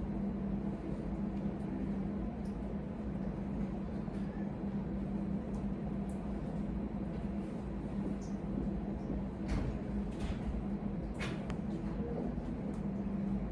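A steady low machine hum with a constant drone and a low rumble, broken by a few faint short clicks.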